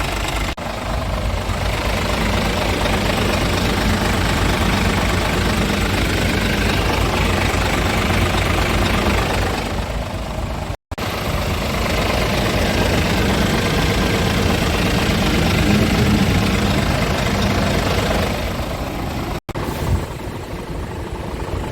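Scania G450 truck's six-cylinder diesel engine running, with its sound swelling for several seconds twice, as when revved up. The sound drops out briefly twice.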